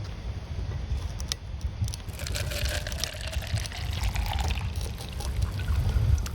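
Liquid pouring, starting about two seconds in, over a steady low rumble.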